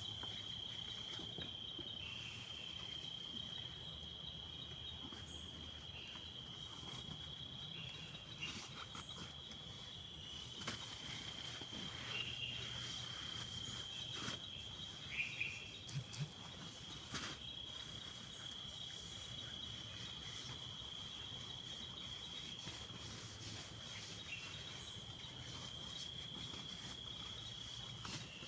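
A steady, unbroken high insect trill, with scattered clicks and taps over it.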